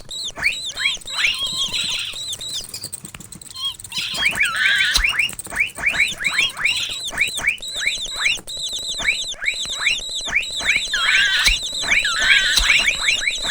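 Mouse squeaking sound effect: rapid runs of short, high-pitched chirps, several a second, with a brief lull about three seconds in and a few longer warbling squeals.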